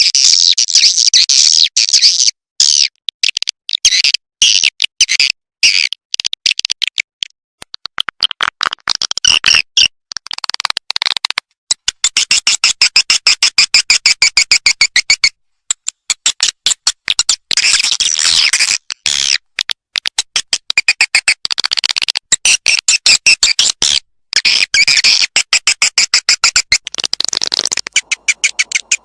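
Swiftlet calling sound (suara panggil walet), a recording of swiftlet twittering played to lure swiftlets to a nesting house. It comes as dense, rapid, high chirping trills in long runs broken by brief pauses.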